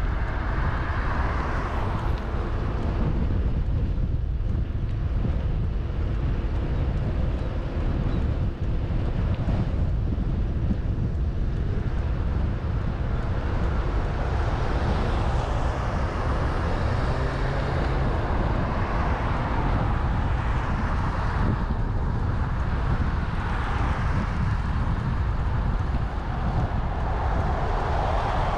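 Steady wind rumble on the microphone of a camera carried on a moving bicycle, over a haze of outdoor street noise.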